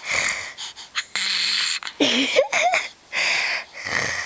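A toddler and a woman trading raspy, scratchy throat noises, as if clearing an itchy throat, in several short bursts. A brief squeaky rising-and-falling voice sound comes about halfway through.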